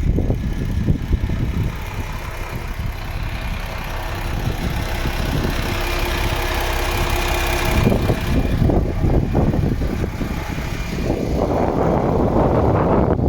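MAN TGX 18.460 truck's 12.4-litre straight-six diesel idling steadily, with an uneven low rumble over it.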